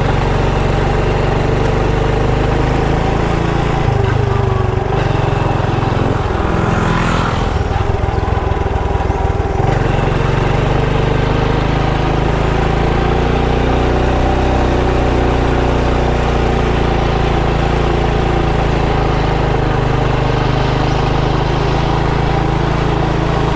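Motorbike engine running steadily while riding, its pitch shifting and unsettled between about four and ten seconds in.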